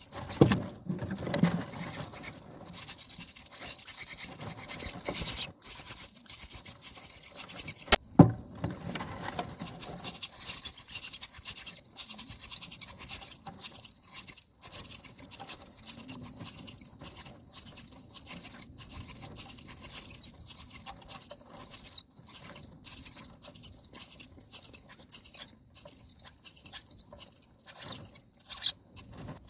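Common myna nestlings giving continuous high, raspy begging calls in the nest, broken by frequent short gaps. There is a sharp click about eight seconds in.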